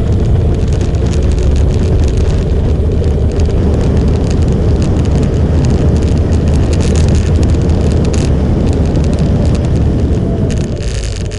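Motorcycle on the move: a steady engine and road rumble mixed with wind noise on the microphone. It eases off slightly near the end.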